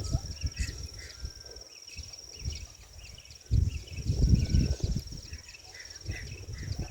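Outdoor ambience: an insect's steady, high-pitched pulsing trill with scattered bird chirps. Low rumbles on the microphone come near the start and again from about three and a half to five seconds in.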